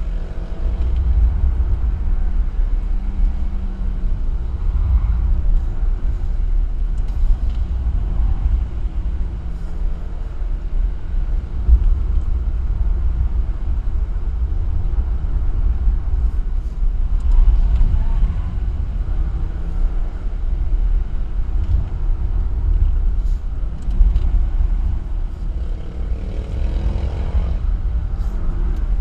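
A car driving at speed: a steady heavy low rumble of engine and road noise. An engine note rises near the end.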